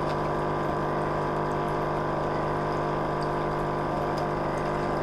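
Aquarium air pump humming steadily while air bubbles up through the salt water in an artemia hatching bottle.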